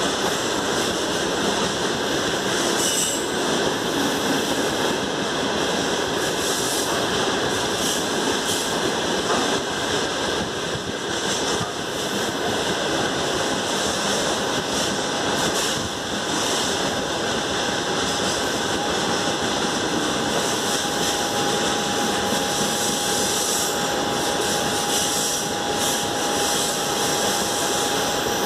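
Freight train of open-top gondola wagons rolling past: a steady noise of wheels running on the rails. About halfway through, a thin steady whine joins it.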